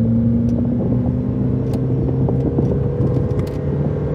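Engine of a stage 2+ tuned Mercedes A200, heard from inside its cabin, pulling hard at a steady pitch under full-throttle acceleration in a drag race, over road and tyre noise.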